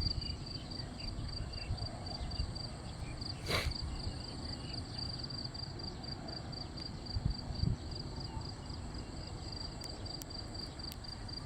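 Insects chirping in a steady, rapidly pulsed high note, with a brief rustle about three and a half seconds in and a couple of low thumps of handling noise later on.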